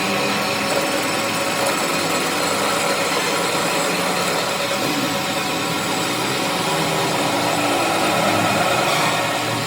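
A workshop machine or power tool running steadily, a continuous mechanical hum and whir.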